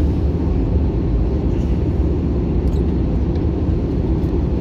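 Steady low rumble of an Airbus A321-200 passenger cabin in flight: engine and airflow noise heard from a window seat, unchanging throughout.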